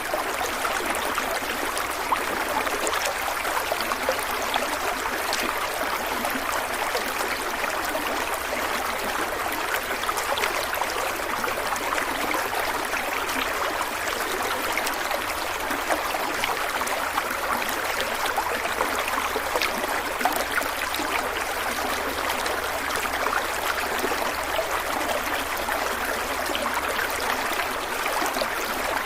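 A stream of water running and splashing steadily.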